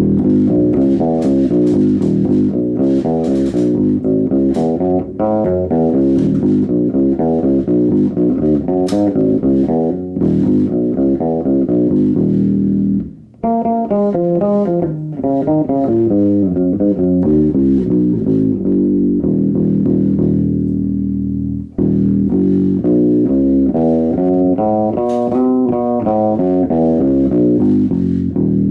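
Gibson Les Paul electric bass played solo: a continuous run of quick plucked notes, with a short break about halfway through where it moves into a higher passage, and another brief break near the two-thirds mark.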